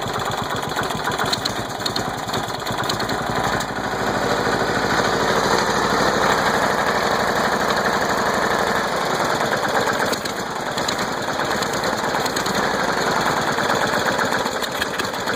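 Riding mower engine running steadily, with the even beat of its firing, on its first run after being flooded with water.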